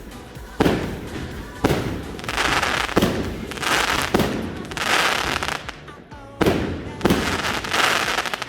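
Firework shots bursting: about six sharp booms, roughly a second apart, several of them trailed by a crackling hiss.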